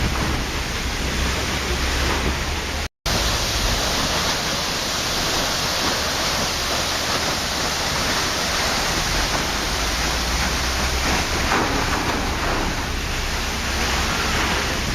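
Steady rush of a waterfall, an even wash of falling water. It cuts out for a split second about three seconds in.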